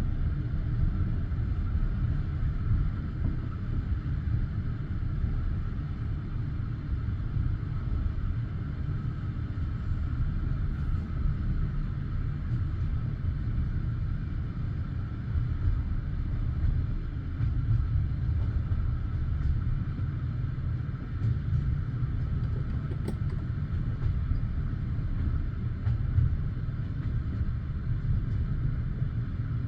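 Passenger train carriage running along the line between stations, heard from inside the car: a steady low rumble of wheels on rails, with a few faint clicks.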